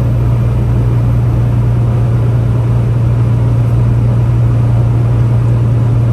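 Steady in-cab drone of a Peterbilt 579 semi truck under way: a strong, even low engine hum with road noise over it.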